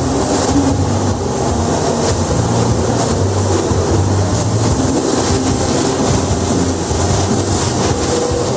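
A loud, steady mechanical rumble with a low hum and a hiss over it, unchanging throughout.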